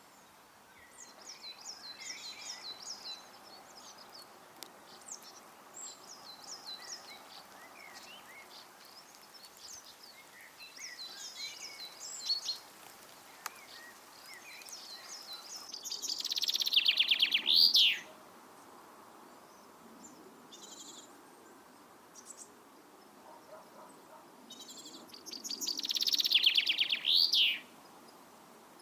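Small garden songbirds singing: quieter, varied chirping phrases, then two louder songs, each a fast run of repeated notes ending in a sweeping flourish, about eight seconds apart.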